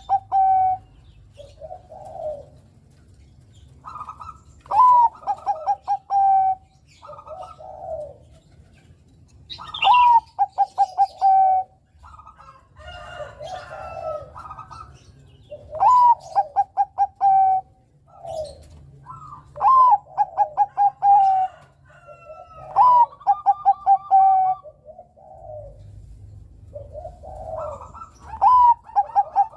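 Bangkok-type zebra dove (perkutut) singing, repeating its cooing phrase every few seconds: a rising note followed by a quick run of short, clipped coos.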